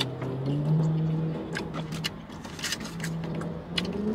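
A man chewing chicken wings, with repeated wet mouth clicks and smacks over a low steady hum.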